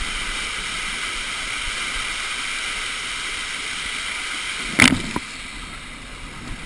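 Steady rush of churning water on a water-park rapids ride, with one sharp hit about five seconds in and a smaller one just after, after which the water is a little quieter.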